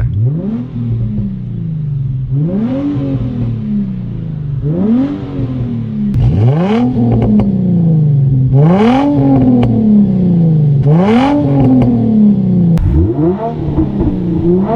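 Infiniti G35's 3.5-litre V6 running through a muffler-deleted exhaust, revved over and over: about seven quick climbs in pitch, each easing back down, roughly every two seconds.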